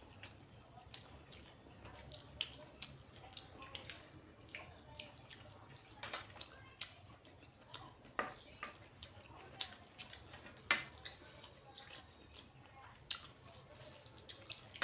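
Close-up eating sounds of a meal of mutton curry and rice: irregular wet clicks and smacks from chewing, a few every second, with one sharper smack a little past the middle.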